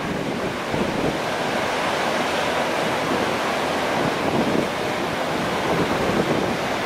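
Steady rushing of a flood-swollen river, with wind buffeting the microphone.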